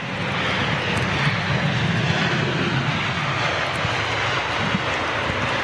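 Boeing 787 Dreamliner jet airliner passing, its engines giving a steady low rumble under a broad rushing noise.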